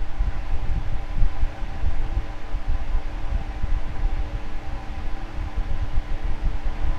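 Electric fan running steadily: an even rush of air with a steady motor hum and a low, uneven rumble underneath.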